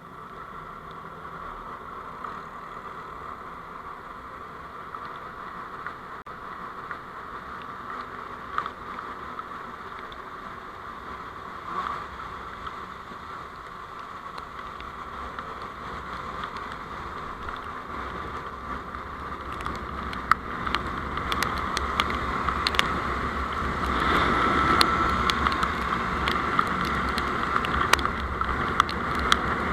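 Road and wind noise of a moving vehicle, building gradually louder, with scattered sharp ticks in the second half.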